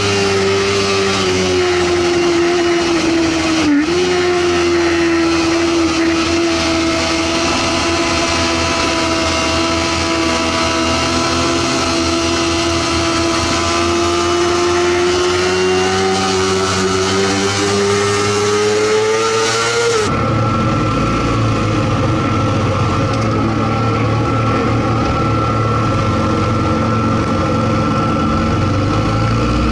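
Sportbike engine held at high revs under a rush of wind, with a brief dip in pitch about four seconds in. Around twenty seconds in it cuts abruptly to a lower, steadier engine rumble with a thin whine.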